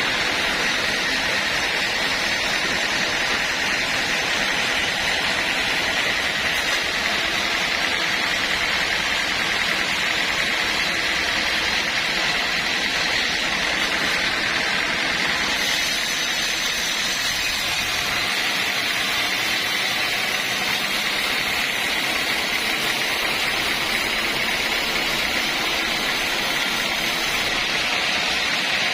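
Sawmill running: a loud, steady machine noise with a constant high-pitched whine.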